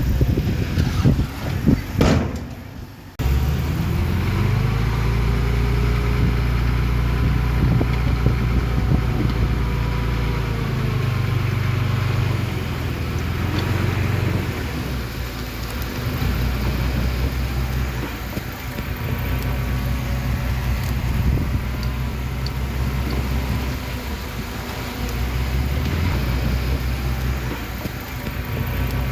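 Diesel engine of heavy earthmoving machinery running under changing load, its low steady note rising and easing every few seconds. This follows a few seconds of noisy clatter at the start that breaks off abruptly.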